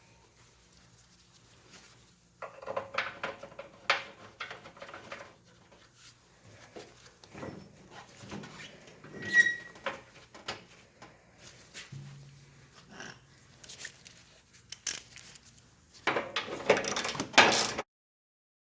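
Metal tools and parts clinking and knocking in irregular handling noises, with a denser burst of rattling near the end that cuts off suddenly.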